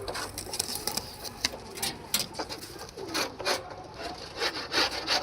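Ferozpuri pigeons cooing a few times amid repeated scratchy rustling and short clicks.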